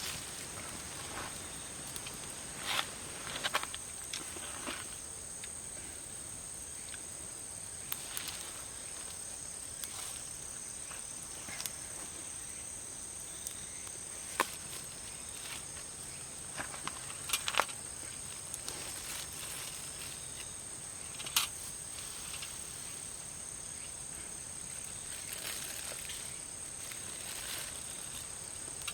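Steady high-pitched insect chirring, with scattered sharp clicks and taps.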